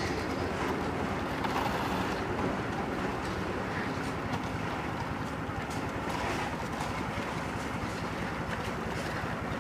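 Engine-driven construction machinery running steadily, with scattered knocks and clatter over the hum.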